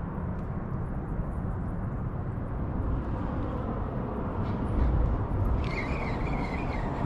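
Steady low outdoor rumble, with a brief wavering high whistle about six seconds in.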